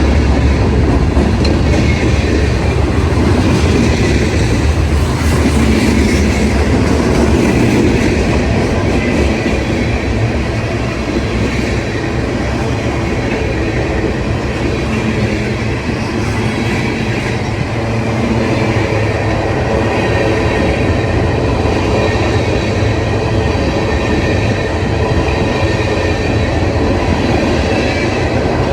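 A train's cars rolling past on the track with steady wheel-on-rail noise. A heavy low rumble at the start fades within the first few seconds.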